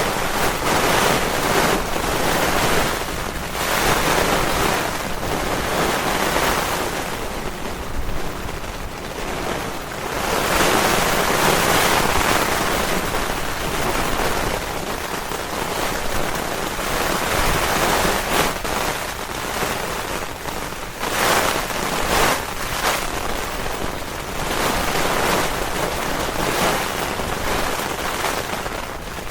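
Strong gusting wind with heavy rain in a severe thunderstorm: a loud rushing noise that swells and eases every few seconds.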